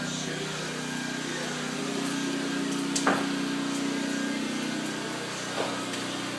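A steady low machine hum, with a sharp knock about three seconds in and a fainter one near the end.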